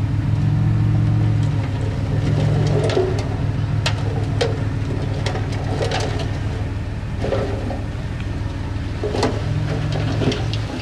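Diesel engine of heavy earthmoving equipment running steadily, with scattered sharp knocks and clanks over it.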